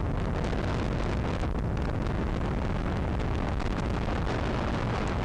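Steady wind rush buffeting the microphone of a motorcycle moving at road speed, mixed with the bike's running and road noise.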